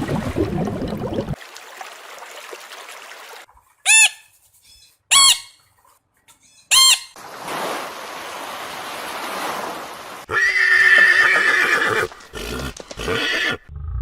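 A run of separate animal calls: three short, sharp calls about a second apart, then a longer call lasting nearly two seconds, with stretches of noisy hiss between them.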